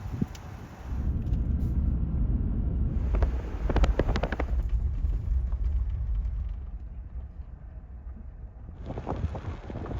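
Truck driving: a steady low rumble of engine and road noise, with a few short knocks or rattles about three to four seconds in.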